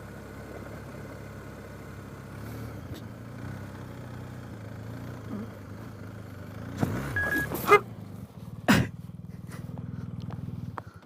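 Motorcycle engine running steadily on a rough dirt road, with a few loud sudden knocks and rattles about two thirds of the way through; the engine sound cuts off abruptly near the end.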